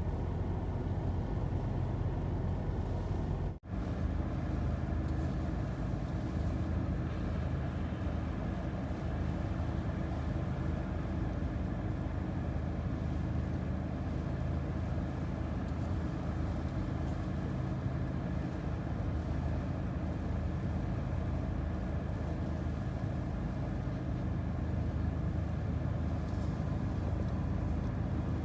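Steady low rumble of a car running, with a brief dropout about three and a half seconds in.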